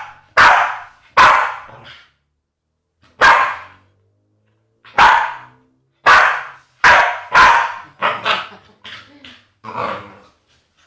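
Staffordshire bull terrier barking in loud, sharp, agitated barks, about a dozen of them, with two pauses of about a second, then a quicker run of shorter barks in the second half.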